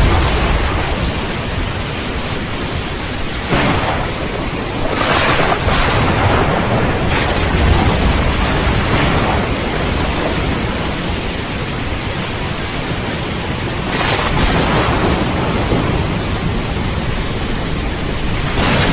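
Steady rain with thunder: a continuous low rumble, with sudden cracks about three and a half seconds in, around five to six seconds, about fourteen seconds in and near the end.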